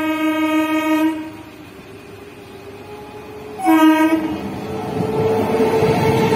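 Electric multiple-unit suburban train sounding its horn: a held blast that cuts off about a second in, then a second, shorter blast a little past the middle. After that the train's running noise and a steady hum build up loudly as it rolls through the level crossing.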